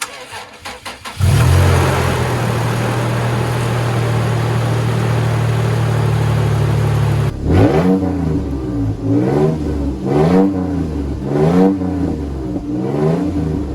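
2015 Toyota Tacoma engine cranked and catching about a second in, running steadily, then revved up and back down about five times: the wrecked truck's first start to check that it runs.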